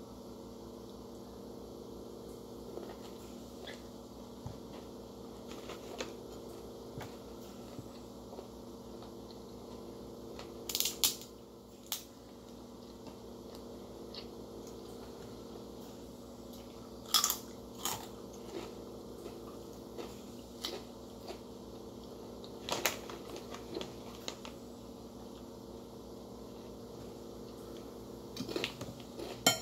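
Close-up mukbang eating sounds: a person chewing and biting food eaten by hand, with a handful of short sharp crunches or clicks standing out, the loudest about eleven and seventeen seconds in. A steady low hum runs underneath.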